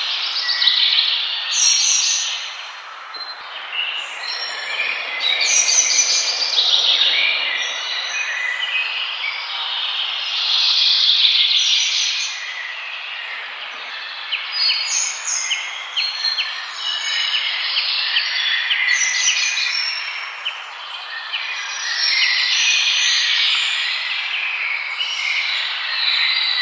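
Several forest birds singing and calling over one another in a dense chorus of chirps and rapid repeated notes, over a steady background hiss.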